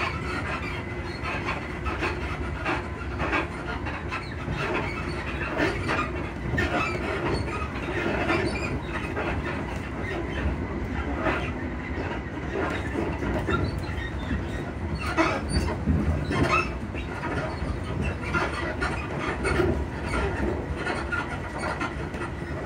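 Interior of a Class 334 electric multiple unit running at speed: a steady rumble of running noise with frequent knocks, clicks and rattles from the suspension and car body. A cluster of louder knocks comes about fifteen to sixteen seconds in.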